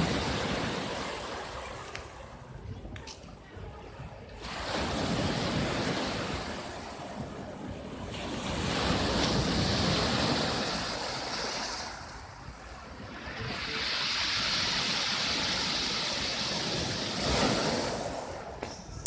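Storm surf on the sea: heavy waves breaking and washing in, each one swelling for a few seconds and dying away, about five in a row.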